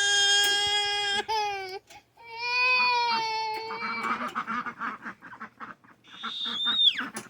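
A child wailing in two long, steady cries, followed by ducks quacking in quick runs. A short high squeal that drops sharply in pitch comes near the end.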